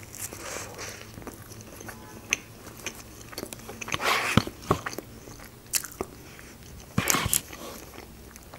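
Close-miked biting and chewing of a doner wrap, wet mouth sounds with scattered soft clicks and a few louder, short noisy bursts about four seconds and about seven seconds in.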